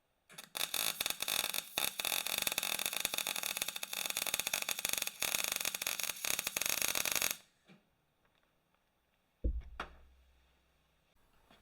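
A welder laying a bead on steel plate, a dense, steady crackle that starts and stops abruptly and lasts about seven seconds. About two seconds after it stops, a single dull thump with a brief low ring.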